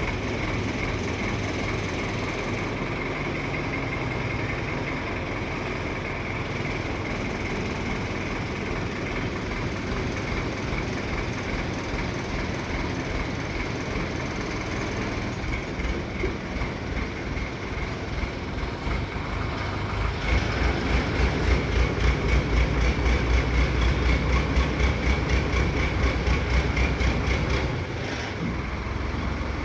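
A large engine running steadily, with a louder, pulsing low rumble from about 20 to 28 seconds in.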